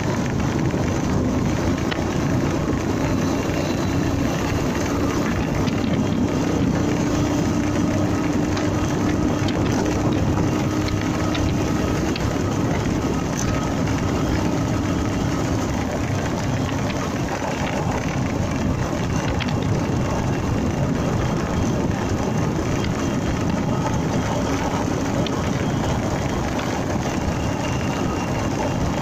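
Honda MegaPro motorcycle under way at a steady pace: its single-cylinder engine running beneath heavy wind and road noise on the microphone, with one steady engine note that holds through the first dozen seconds.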